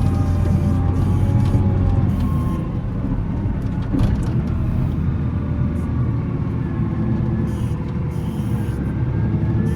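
Volvo L70C wheel loader's diesel engine running under load while plowing snow, its pitch drifting up and down as the revs change, with a single knock about four seconds in.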